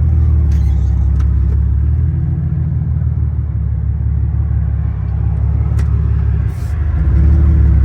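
A lowered pickup truck's engine rumbling under throttle as the driver tries to reverse the truck off where its frame and exhaust are hung up. The engine note dips briefly about six and a half seconds in, then rises again.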